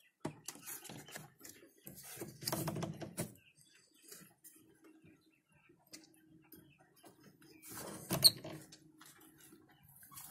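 Farm animals moving about in bedding: irregular rustling and scratching, with two louder scuffles, about two and a half seconds in and again near eight seconds.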